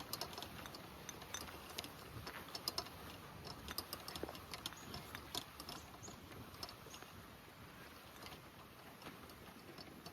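Light rain pattering: faint, scattered drop ticks at an irregular pace over a quiet background.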